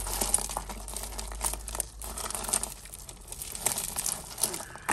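Hands rummaging through a heap of tangled costume jewellery: irregular clicking of beads and chains against each other, with crinkling.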